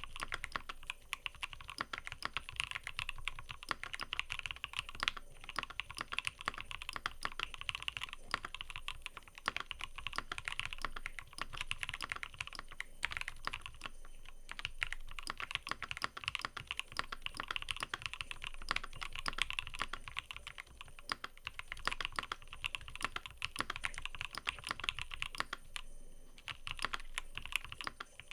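Steady, fast typing on a mechanical keyboard: a dense stream of crisp keystroke clicks, with a couple of brief pauses.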